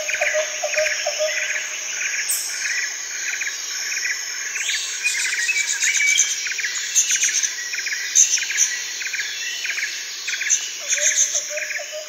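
Background soundtrack of bird-like chirps repeating at an even pace. A quick ticking plays under it at the start and comes back near the end.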